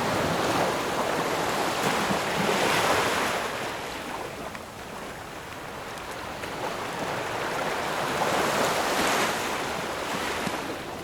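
Ocean waves breaking and washing on the shore, two swells of surf about six seconds apart.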